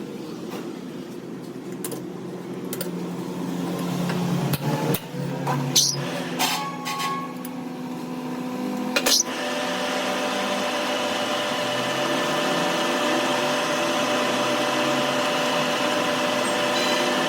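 Scattered metal clinks and knocks, then about nine seconds in a workshop machine starts up and runs steadily.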